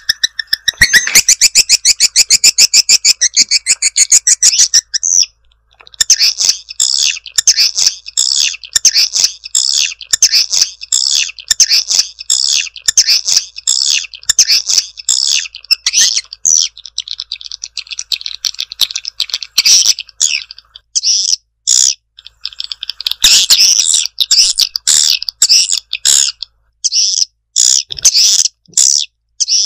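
Swiftlet lure call (suara tarik walet), the kind played to draw swiftlets into a nesting house: fast trains of high chirps repeating several times a second. There is a brief pause about five seconds in and a few short gaps in the last third.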